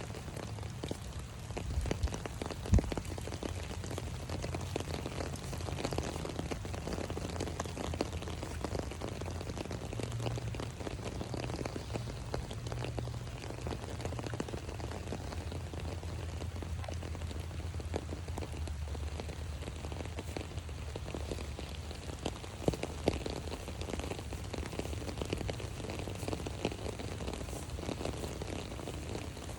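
Rain falling on an umbrella: a dense, irregular spatter of drops, with a few louder ticks, the sharpest about three seconds in.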